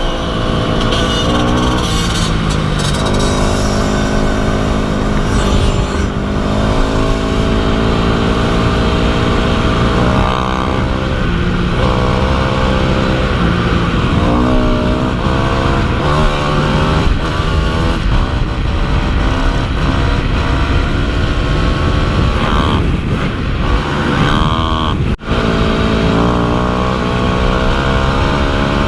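Dirt bike engine being ridden on a trail, its pitch rising and falling again and again as the throttle opens and closes and the gears change. The sound drops out for an instant about 25 seconds in.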